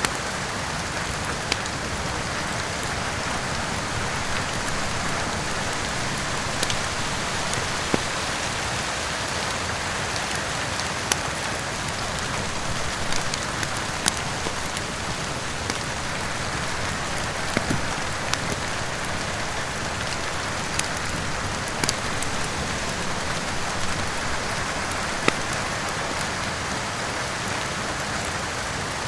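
Steady heavy rain with a crackling wood fire, sharp pops and snaps every few seconds.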